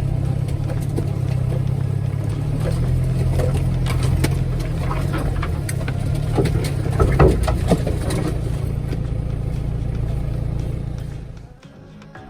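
Off-road vehicle engine running steadily, with a run of clattering knocks and rattles as it works over rough ground, loudest past the middle. The sound fades away about a second before the end.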